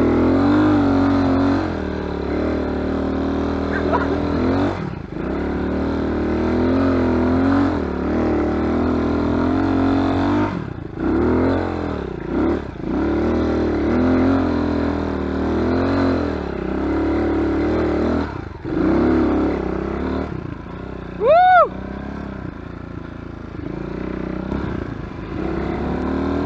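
Dirt bike engine revving up and down as it is ridden, with the throttle shut off briefly several times. About three-quarters of the way through, a short, loud, rising-and-falling whoop cuts in.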